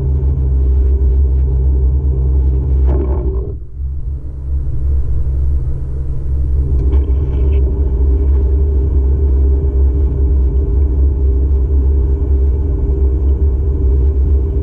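Car driving, heard from inside the cabin: a steady low rumble of engine and road noise, with a brief drop in the noise about four seconds in and a short higher sound about seven seconds in.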